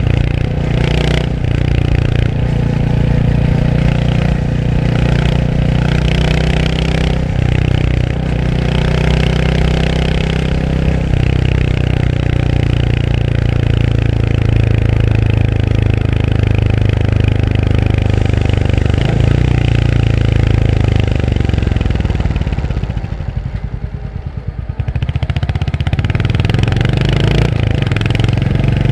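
Royal Enfield Hunter 350's single-cylinder engine running under way, its pitch changing several times as the revs change. Near the end the engine note drops quieter and slower for a couple of seconds, then picks up again.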